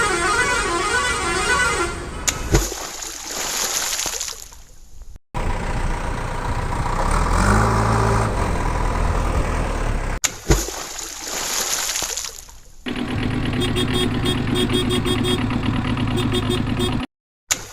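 A run of cut-together toy-video vehicle sound effects: a wavering horn at the start, then two sudden crashes, each followed by a fading rush of noise, with engine and horn sounds between them and a fast repeating toot near the end.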